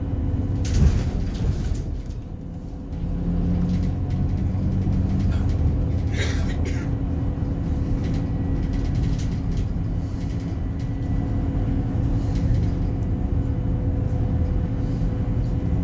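Scania diesel engine of an Alexander Dennis Enviro300 bus running with a steady low drone, easing off around two seconds in and pulling again about a second later. A short hiss comes about six seconds in.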